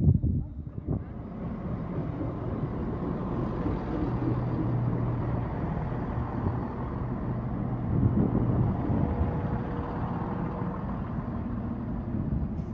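CrossCountry Class 170 Turbostar diesel multiple unit running past close by, a steady mix of diesel engine hum and wheels on the rails.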